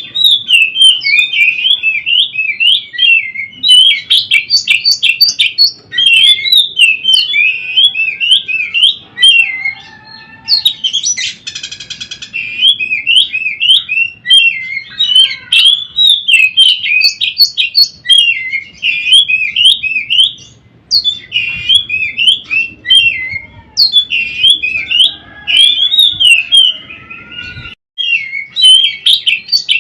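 Oriental magpie-robin (kacer) singing a fast, continuous song of varied whistles and chirps, with a short harsh rattle about eleven seconds in.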